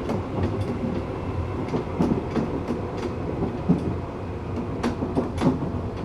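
Tokyu 8500 series electric train with Toyo-built traction motors running along the line: a steady rumble with a faint steady motor tone, and irregular clacks and knocks of the wheels over rail joints.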